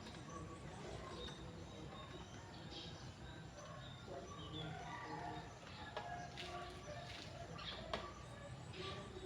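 Faint background of birds calling, with a few light clicks in the second half.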